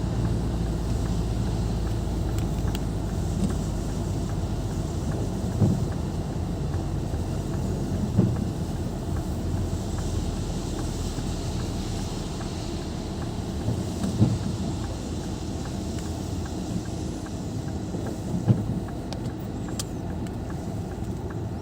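A car driving, recorded from on board: a steady low rumble of engine and road noise, with a few short thumps spread through it.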